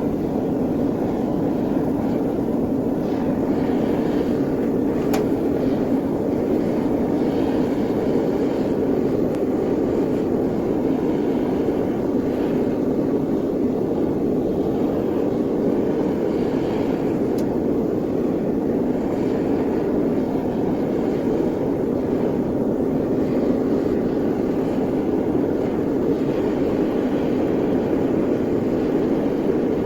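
Smelting furnace running with a steady, even roar.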